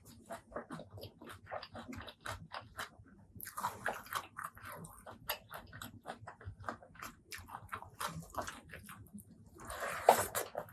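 Close-miked mouth sounds of a person chewing food, a steady run of small wet clicks and smacks. Two louder, crunchier bites come about three and a half seconds in and near the end, the later one the loudest.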